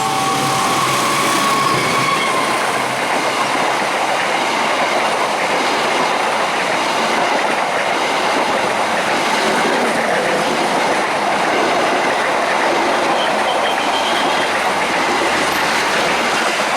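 A train passing close by a level crossing, with a steady loud rush of wheel and rail noise throughout. The crossing's warning chime sounds faintly under it in the first couple of seconds.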